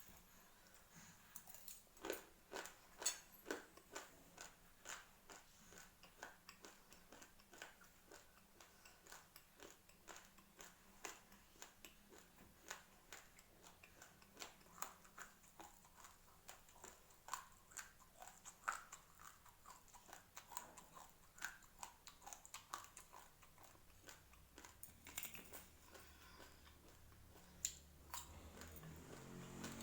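Raw rice grains being chewed close to the mouth: many short, sharp crunches at an uneven pace.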